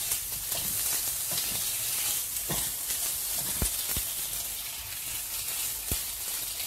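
Prawns sizzling steadily as they fry in oil in a non-stick wok, stirred with a spatula, with a few sharp knocks of the spatula against the pan. The prawns are cooked through at this stage.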